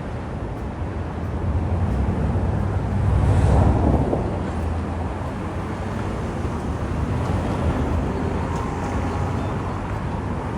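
Street traffic rumbling low and steady, swelling as a vehicle passes close about three to four seconds in.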